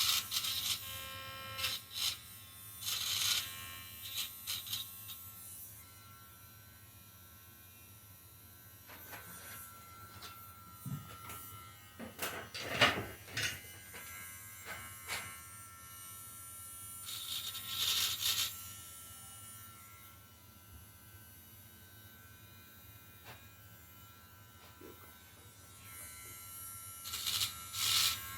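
Cheap handheld rotary tool whining steadily at speed, with several short bursts of grinding as the bit is pressed against the engine block to remove casting burrs and rough edges. The loudest burst comes about halfway through.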